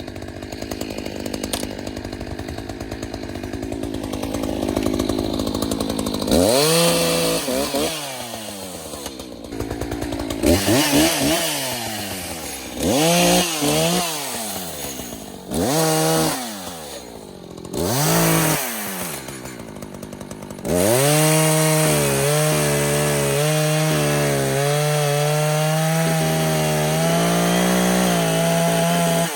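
Echo CS-590 two-stroke chainsaw running low for the first few seconds, then revved up and dropped back about five times in quick blips. In the last third it is held at high revs with its pitch wavering.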